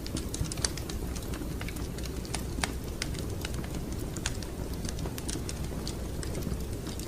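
Wood fire crackling, with irregular sharp pops and snaps, several a second, over a steady low rumble.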